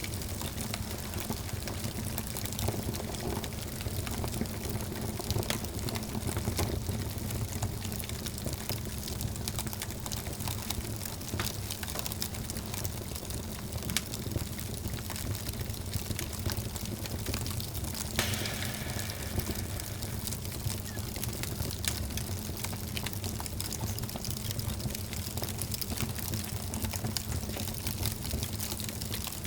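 Wood fire burning in a fireplace: a steady low rumble of flames with frequent small crackles and pops. A sharper crack comes about eighteen seconds in, followed by a brief hiss.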